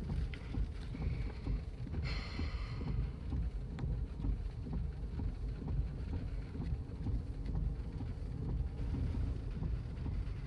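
Low, rumbling storm wind buffeting the microphone, with a brief higher hiss about two seconds in.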